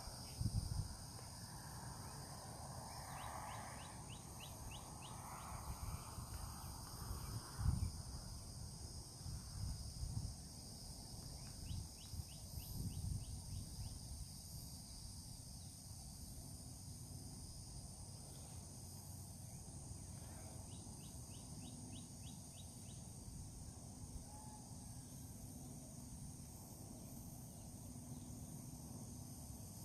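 Outdoor chorus of insects, a steady high-pitched drone, with a bird calling in short runs of rapid clicking notes three times. A few low rumbles come in the first part.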